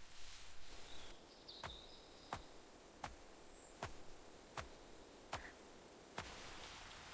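Seven sharp knocks at an even pace, a little more than one a second, with a few faint bird chirps between them.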